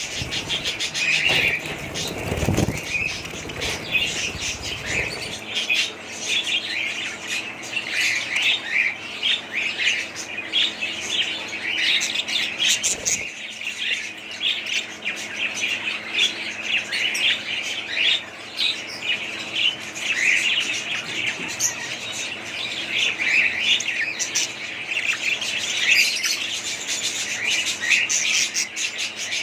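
A group of budgerigars chattering, with many short overlapping chirps and warbles running on without a break.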